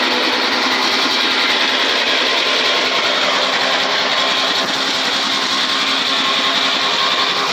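Riding lawn mower's electric starter cranking the engine steadily without it catching, a fast even whirring; the owner thinks the mower is out of fuel.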